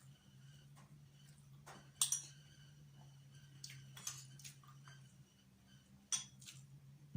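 Cutlery clinking and scraping against a plate or bowl during a meal, with two sharper clinks about two seconds and six seconds in and a few lighter taps between.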